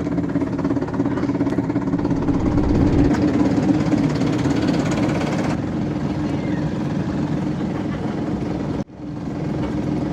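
Small river boat's engine running steadily with a low hum. The sound drops out sharply for a moment near the end.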